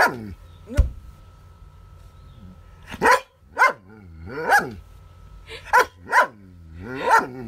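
Dog barking repeatedly in play, about seven barks in uneven bursts, with a low thud about a second in.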